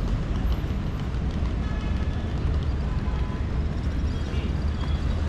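City ambience: a steady low rumble of traffic, with faint scattered higher sounds over it.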